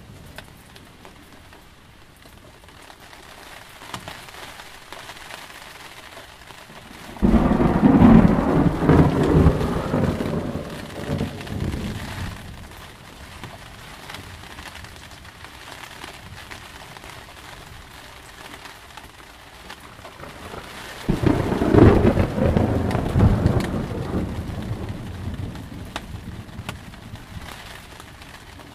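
Steady rain with two thunderclaps: the first breaks suddenly about seven seconds in and rumbles away over some five seconds, the second comes about twenty-one seconds in and rolls off more slowly.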